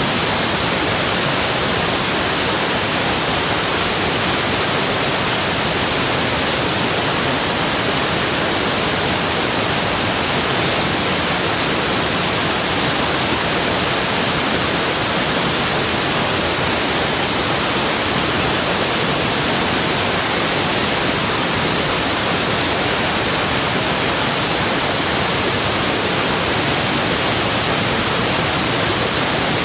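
Steady, loud rushing of flowing water, an even hiss that does not change.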